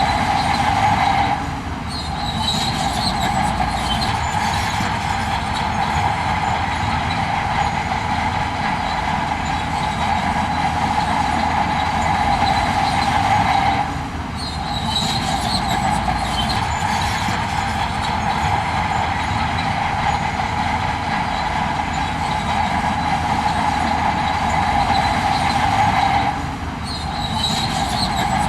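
Heavy earthmoving machinery working: a steady engine drone under a continuous whine. The whine drops out briefly three times, about every 12 seconds.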